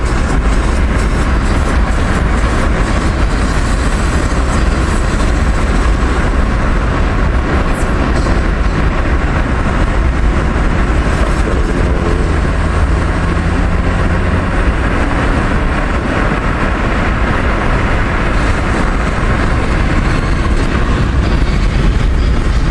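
Car driving along, with steady road and engine rumble heard from inside the moving car.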